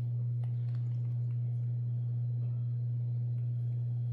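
A steady low hum at one pitch, with a few faint clicks.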